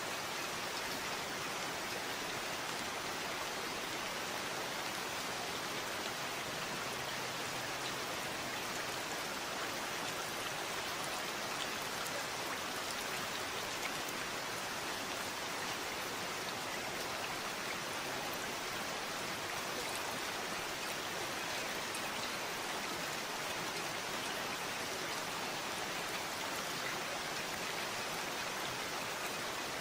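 Steady rain falling, an even hiss of drops on surfaces with no change in intensity.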